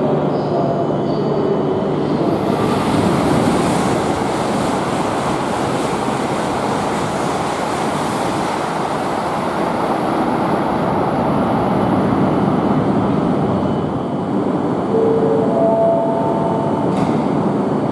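Tohoku Shinkansen E5 series train running past the platform and coming to a stop: a steady rush of wheels and air, with a few brief steady tones near the end.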